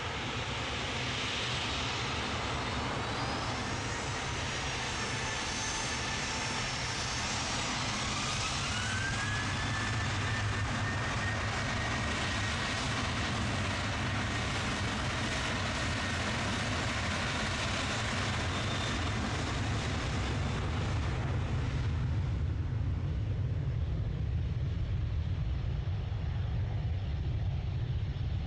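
Jet airliner's engines spooling up for a takeoff roll: a loud steady roar with a whine that rises in pitch and then holds, and a deep rumble that builds toward the end.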